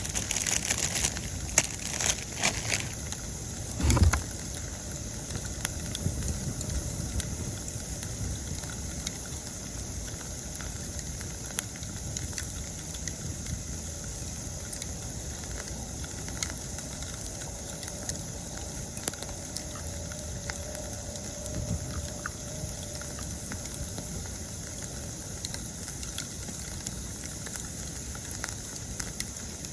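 Wood campfire crackling and popping, with a flurry of snaps in the first few seconds and one loud pop about four seconds in, over a steady chorus of autumn insects.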